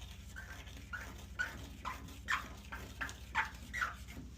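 Dog whining: a run of about eight short, high whines, each falling in pitch.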